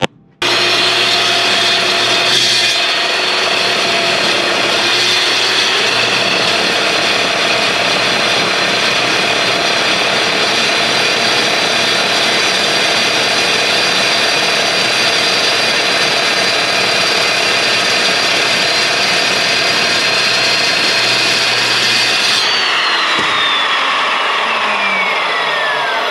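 Evolution metal-cutting chop saw starting up and cutting through thick steel plate with a loud steady whine. Near the end it is switched off and spins down, its pitch falling.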